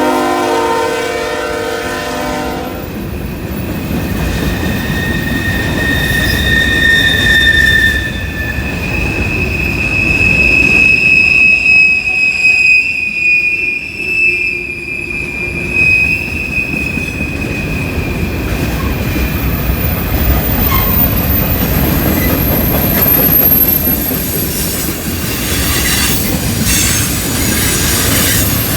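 Train horn chord sounding and cutting off a couple of seconds in, then the train rolling past with a steady rumble of wheels on rail. Steel wheels squeal in several long, high tones, and the pitch climbs higher toward the end.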